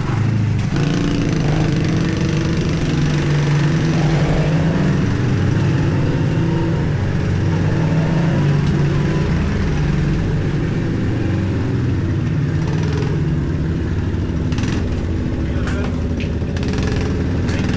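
Small pit bike engine running steadily under way, its pitch rising and falling a little with the throttle.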